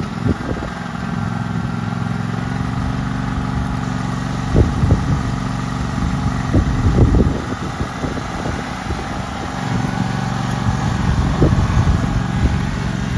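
John Deere LT180 lawn tractor engine running steadily at idle just after starting, with a few brief low thumps about four and a half, seven and eleven seconds in.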